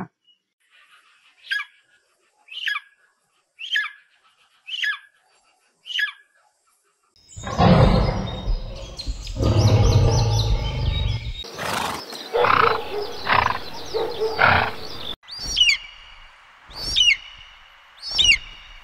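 Five short, falling high-pitched calls about a second apart, then a lion growling and roaring loudly for about eight seconds, then a bald eagle's high chirping calls, repeated roughly once a second.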